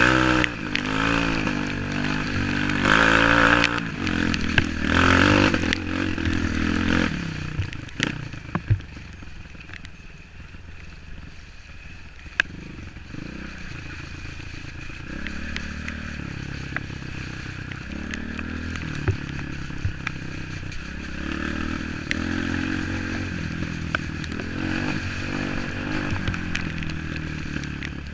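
Off-road motorcycle engine revving up and down for the first several seconds, then running at low revs, with scattered clicks and scrapes.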